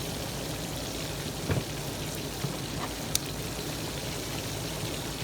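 Cornmeal-coated fish frying in a pan of hot grease, a steady sizzle with a couple of faint clicks.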